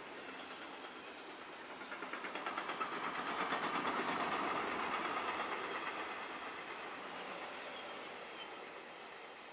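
A train passing on the line, its wheels clattering rapidly over the rails; the noise swells to its loudest a few seconds in, then fades away.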